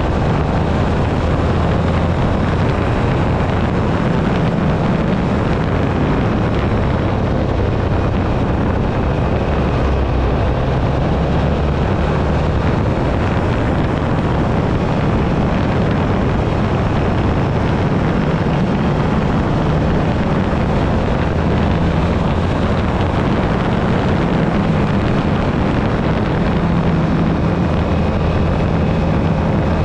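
Yamaha Ténéré 700's parallel-twin engine running steadily while riding, with wind noise over the microphone.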